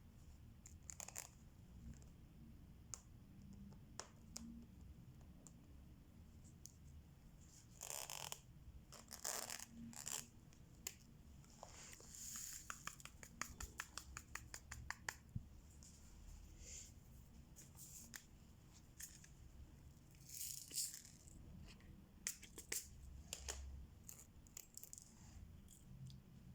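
Faint diamond-painting handling sounds: scattered clicks and taps of resin drills and tools, a few short rustles, and a quick run of rattling ticks in the middle.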